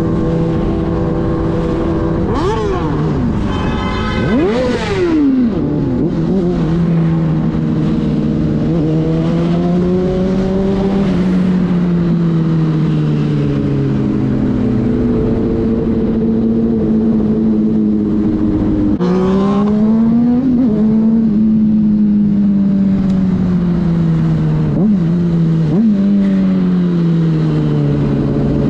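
Inline-four sport motorcycle engines running at highway speed, the engine note slowly rising and falling with the throttle over a rush of noise. About two to five seconds in and again about nineteen seconds in, the pitch rises quickly and drops away.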